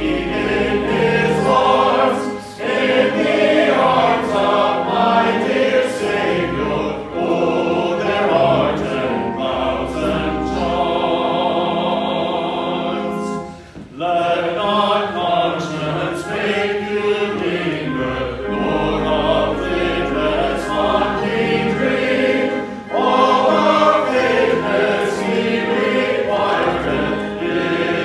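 Congregation singing a hymn together in phrases, with a long held chord about eleven seconds in and a brief break just before the next line.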